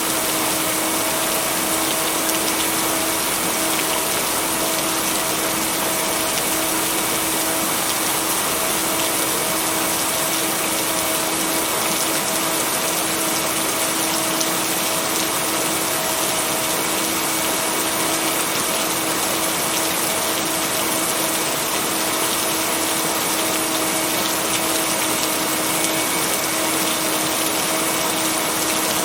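Steady heavy rain, an even hiss with no breaks and no thunder, with a few faint steady hum tones running underneath.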